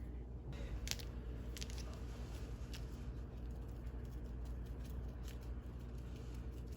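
Scattered small clicks and light crinkles from handling food by hand, over a steady low hum.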